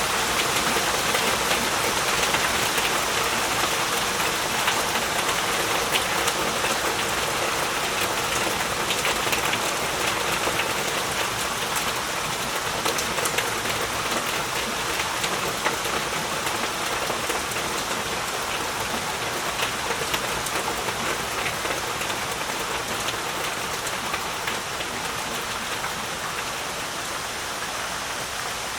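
Heavy rain falling steadily: a dense hiss with many close, sharp drop hits, easing slightly quieter toward the end.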